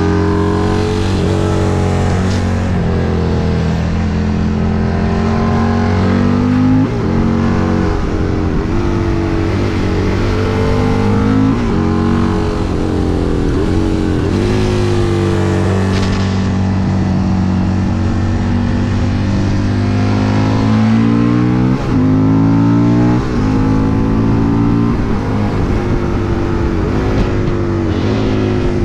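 Husqvarna Nuda 900's parallel-twin engine heard onboard, accelerating and shifting gears. Its pitch climbs and drops sharply again and again as it goes up through the gears and backs off, with wind noise on the microphone.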